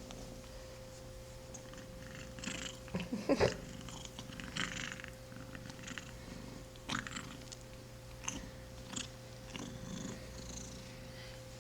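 A kitten purring, with several short noisy sounds scattered through, the loudest about three seconds in. The kitten has a congested nose from a serious respiratory problem.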